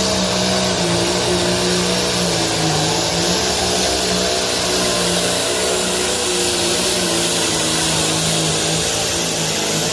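Competition pulling tractor's engine running loud and steady at high revs during a pull, its pitch wavering slightly.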